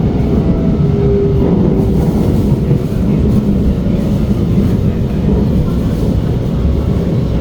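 SMRT R151 metro train running along the track, heard on board: a steady, loud rumble of wheels and running gear, with faint thin tones that come and go above it.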